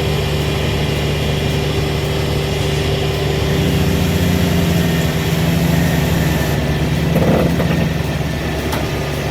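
Diesel engine of a hydraulic excavator running steadily. It gets a little louder and higher in the middle as the machine works, then eases back.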